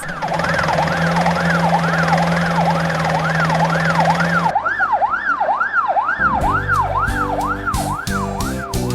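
Ambulance siren sweeping rapidly up and down in pitch, about twice a second, over a steady hum and hiss that cut off about four and a half seconds in. Music joins it over the last few seconds.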